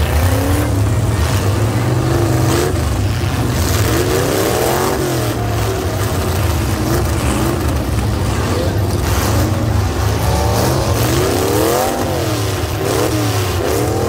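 Demolition derby cars' engines running with a steady low rumble, several revving up and down in turn, the biggest revs about eleven to thirteen seconds in.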